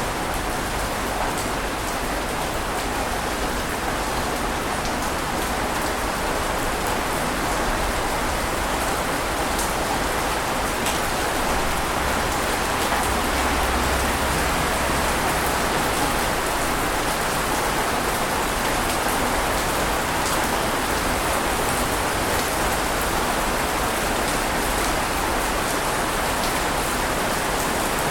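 Ocean waves washing on a beach, a steady rushing hiss of surf with no distinct single breaks.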